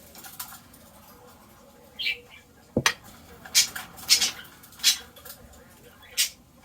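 Kitchen handling sounds during food preparation: a single knock a little under three seconds in, among about five short, sharp, hissy scrapes.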